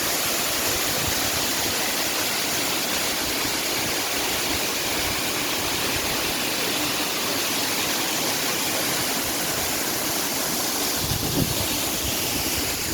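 Waterfall rushing steadily, a dense even roar of falling water. There is a short low bump about eleven seconds in.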